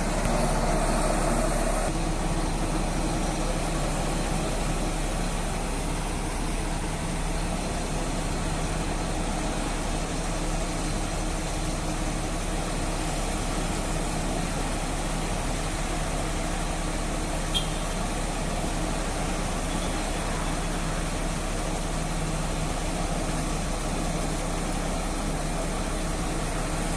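Mobile crane's diesel engine running steadily, a little louder for the first two seconds, with one short click about two-thirds of the way through.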